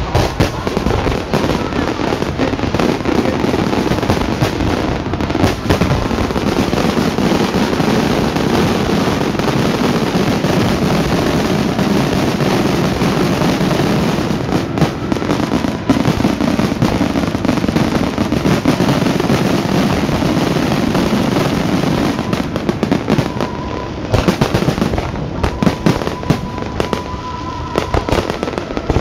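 Fireworks display: a dense, continuous barrage of overlapping bangs and crackling that thins out after about 23 seconds into separate, spaced-out bangs.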